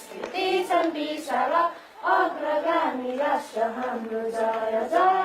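Voices singing a melody in short phrases, with brief breaks between the lines.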